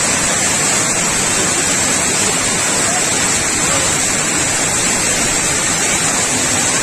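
Overflow water from a dam spillway rushing loud and steady.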